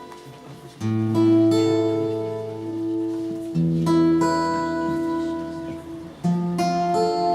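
Acoustic guitar playing slow chords: three chords strummed about every two and a half seconds, each left to ring and die away.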